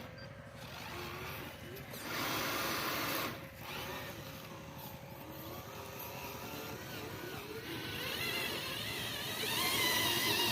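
Small electric motors of radio-controlled construction models whirring, their pitch wavering up and down and growing louder from about eight seconds in.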